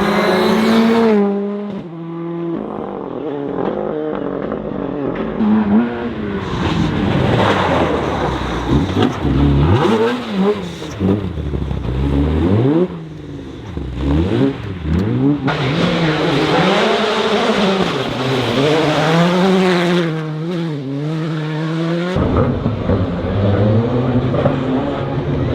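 Rally car engines revving and changing gear as the cars pass, the pitch climbing and dropping again and again. The sound switches abruptly to a different car a few times.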